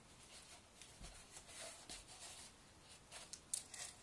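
Faint rustling and handling noises of items being taken out of a parcel, with a few soft clicks near the end.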